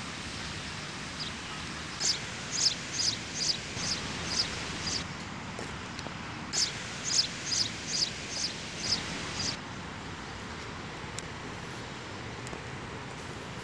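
A bird singing two runs of short, high, repeated notes, about seven notes in each run at two to three a second, over steady outdoor background noise.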